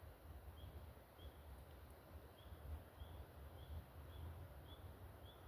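Near silence with faint, evenly spaced high chirps from a small animal, about one every 0.6 seconds, over a low rumble of wind.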